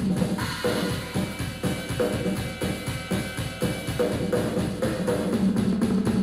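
Drum kit played in a fast solo: rapid strokes on the drums, with a crash about half a second in that rings on for a few seconds.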